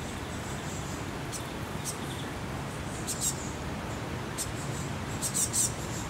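Small birds giving short, very high, thin calls, in ones and twos, with a quick run of three near the end, over a steady outdoor hiss.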